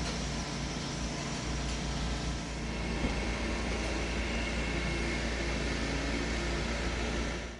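Steady rumble and hiss of a moving train, with faint steady whining tones over it; the sound cuts off abruptly near the end.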